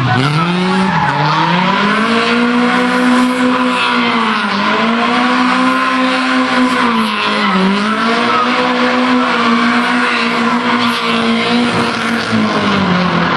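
Rally car engine driven hard, its pitch climbing and then dropping sharply about four times, at the start and roughly one, four and a half and seven and a half seconds in.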